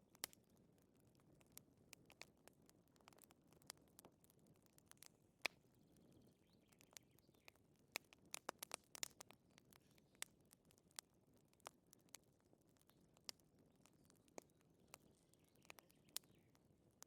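Wood fire crackling softly in a fireplace: scattered sharp pops and snaps at irregular intervals over a faint low hiss, with a denser cluster of crackles about halfway through.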